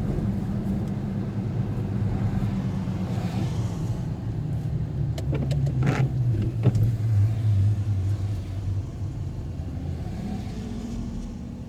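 Car engine running with road noise while driving, its low hum shifting in pitch through the middle. A few sharp clicks come around the middle.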